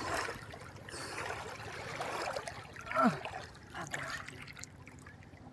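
Water trickling steadily, with a short falling pitched sound about three seconds in.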